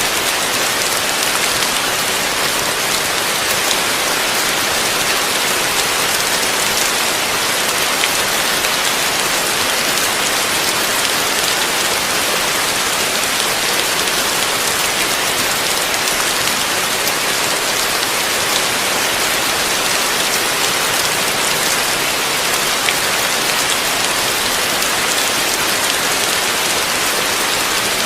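Heavy rain falling steadily, a dense hiss of drops hitting a surface with faint individual drop ticks.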